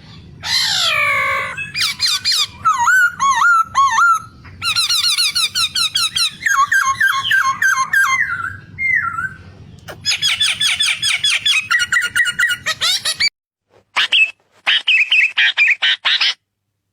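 White-browed scimitar babbler calling: fast runs of repeated whistled notes and chattering phrases, the pattern changing every second or two. A low hum runs underneath until it cuts off suddenly about three-quarters of the way through, after which the calls come in short, choppy bursts separated by gaps.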